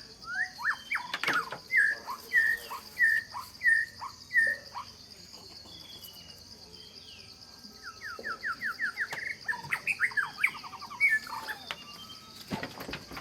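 A bird calling: a run of short, loud whistled notes about twice a second, then a quick trill of notes about eight seconds in. A steady high insect drone runs underneath.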